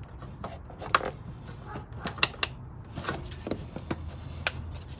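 Scattered sharp plastic clicks and knocks as a car's engine air intake and airbox are handled and their clips fastened back in place.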